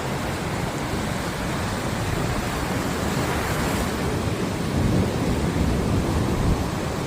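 Sea waves washing in with a steady rush, swelling slightly near the end, mixed with wind buffeting the microphone.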